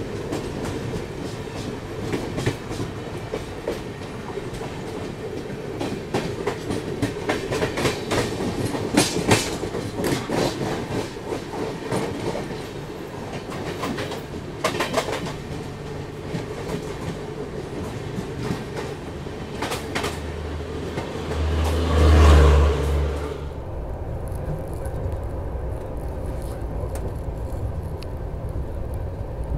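Two passenger trains passing at speed on adjacent tracks, heard from an open coach door: a steady rumble of wheels on rail with rapid clickety-clack from the rail joints. About two-thirds of the way through comes a brief loud low rush. After it the train sound turns duller and quieter, heard from inside the coach through the glass.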